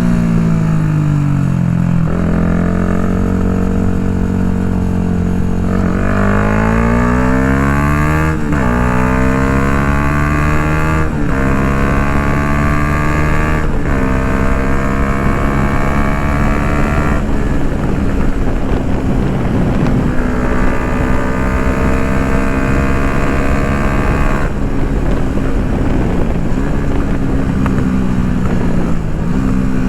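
Yamaha MT-125's single-cylinder four-stroke engine through an Akrapovic full exhaust, accelerating up through the gears. The pitch climbs and drops at three upshifts in the first half, then holds a steady cruise and sinks slowly near the end.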